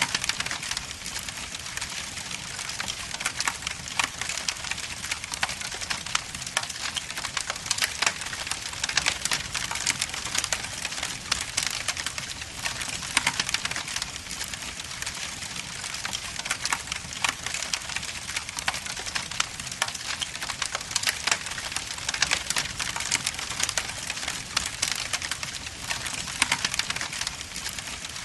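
Log fire burning in an indoor fireplace, crackling steadily with dense quick pops and snaps over a soft hiss.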